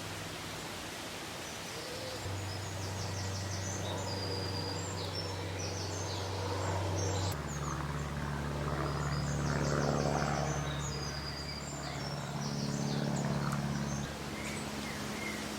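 Songbirds singing in woodland, two bursts of high trilled phrases a few seconds apart. Beneath them runs a steady low hum that shifts pitch a few times, with a rumble that swells and fades near the middle.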